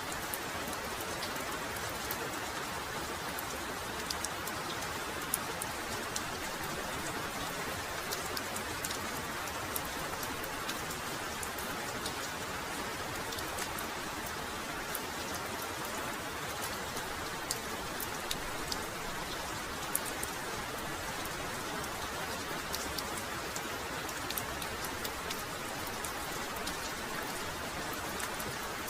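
Steady heavy rain falling, with many individual drops pattering sharply over the continuous hiss.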